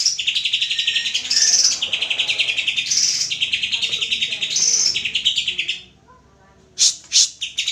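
Cucak ijo (greater green leafbird) singing: a run of fast, buzzy trilled phrases, each opened by a higher note, about four in a row. It breaks off about six seconds in, then gives a few sharp chips.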